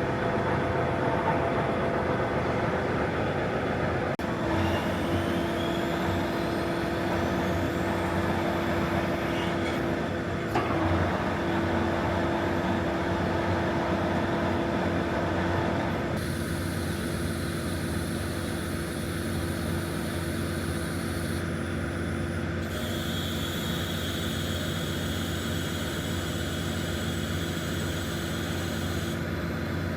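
John Deere 2660 VT tractor's diesel engine running steadily. A steady tone joins in about four seconds in.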